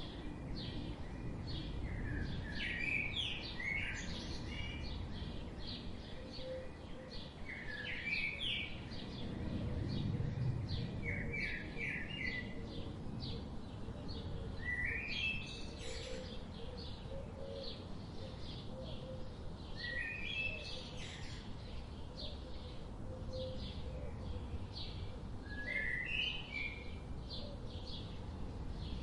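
Birds chirping: short bursts of a few quick chirps recur every few seconds over a steady, dense chatter of faster high notes, with a low rumble underneath.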